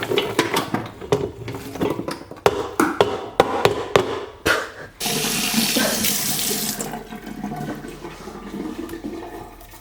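Kitchen utensils knocking and clinking against a pot as ingredients are tipped in, then about five seconds in a two-second rush of running water that stops abruptly.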